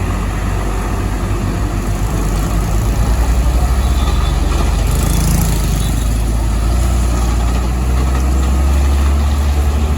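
Heavy trucks' diesel engines running with a steady low rumble, and a short hiss about five seconds in.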